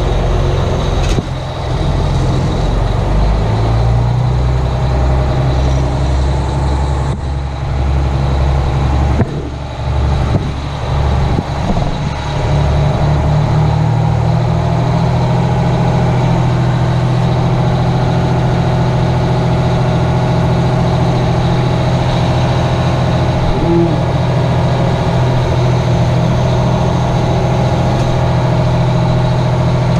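Detroit Diesel engine of a 1980 Howe fire truck running. Its speed shifts unevenly over the first dozen seconds or so, then settles into a steady run.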